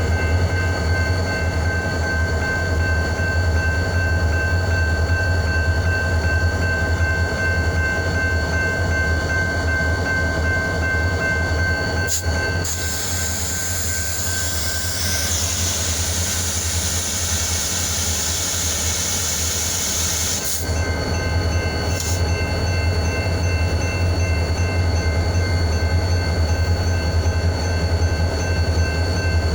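Diesel locomotive running steadily with a deep, even drone and constant whining tones. About twelve seconds in, a click is followed by a hiss of air lasting about eight seconds, then another click.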